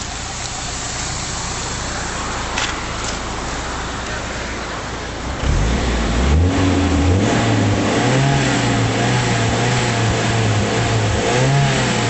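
BMW E30 318is four-cylinder engine breathing through a 325i rear silencer, idling steadily, then revved up sharply about five seconds in and held at raised revs with a couple of further blips.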